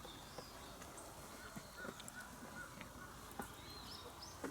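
Wood campfire crackling faintly, with scattered sharp pops, the loudest near the end. Faint short high chirps come and go.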